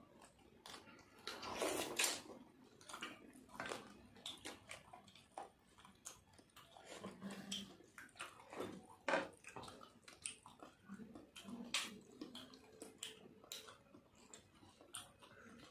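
Two people eating rice and dal with their hands: chewing and mouth smacks in scattered short clicks, with fingers mixing wet rice on plates.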